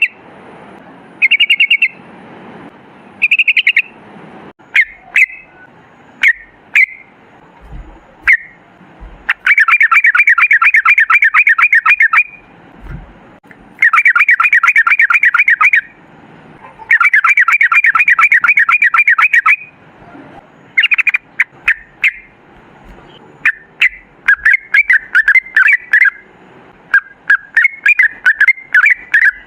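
Yellow-vented bulbul (trucukan) singing loudly: short bubbling phrases, then three long rapid rolls of about eight notes a second, each two to three seconds long, then choppy chattering notes near the end.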